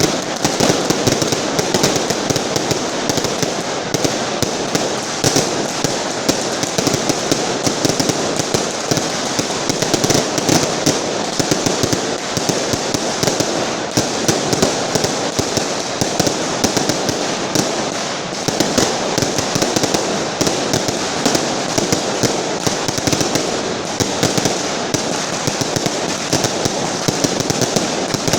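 A long carpet of linked firecrackers going off, a dense, unbroken crackle of rapid bangs that keeps going without a pause.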